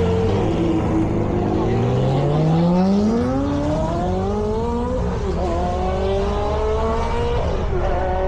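Car engines revving, the pitch climbing and falling back several times over a steady low idle.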